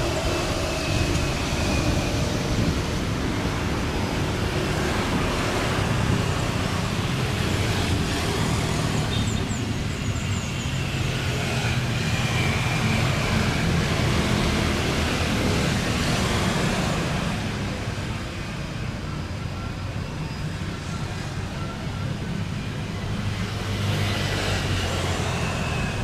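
Steady engine rumble and hiss, with a faint high whine that comes and goes, a little quieter in the last third.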